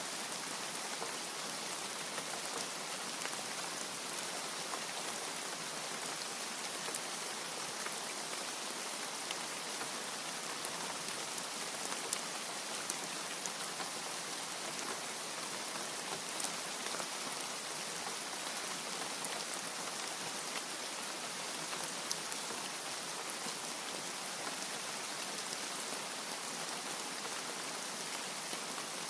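Steady rain falling, with a continuous hiss and scattered sharp ticks of individual drops.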